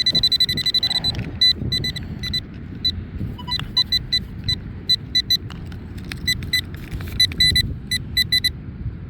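Metal detector beeping at a target: one steady high tone for about the first second, then short beeps at the same pitch at irregular intervals. Wind rumbles on the microphone throughout.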